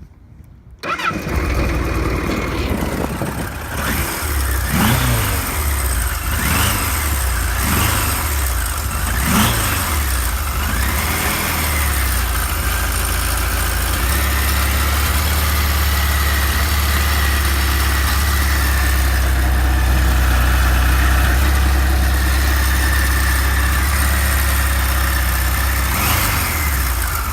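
A 1978 Kawasaki KZ1000 A2's air-cooled inline-four engine, running through its stock exhaust, catches and starts about a second in. It is revved with about six quick throttle blips that rise and fall, then settles into a steady idle, with one more blip near the end.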